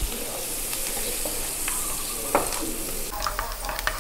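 Curry leaves, chillies and garlic sizzling in melted butter in a nonstick pan while a wooden spatula stirs them, with scattered light scrapes and knocks of the spatula on the pan, one a little louder about two and a half seconds in.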